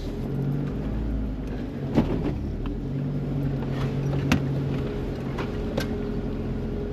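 A 4WD ute's engine running steadily at low revs, with a few sharp knocks from the vehicle on the rough track, the loudest about two and four seconds in.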